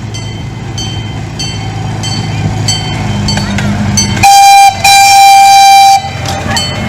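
Miniature CP Huntington train approaching, its engine hum growing louder, with a bell dinging at a steady rhythm, under two a second. About four seconds in the train's horn sounds a short blast, then a longer one of about a second.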